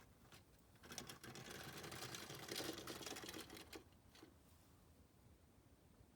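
A quiet, dense rattle of small rapid clicks lasting about three seconds, starting about a second in.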